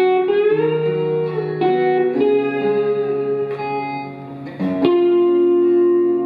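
Live blues band playing the closing bars of a song: guitar with held, sliding notes, a short drop in volume, then a final chord struck about five seconds in and left ringing.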